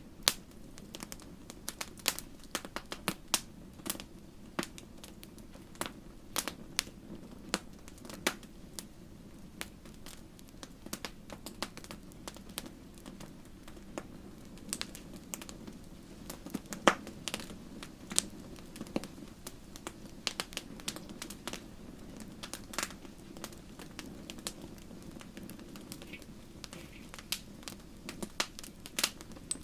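Wood fire crackling: irregular sharp pops and snaps over a soft steady hiss of burning.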